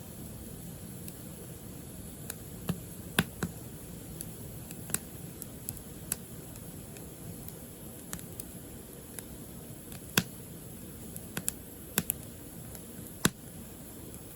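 Firewood burning: a steady low rush of flame with irregular sharp crackles and pops, a few of them much louder than the rest.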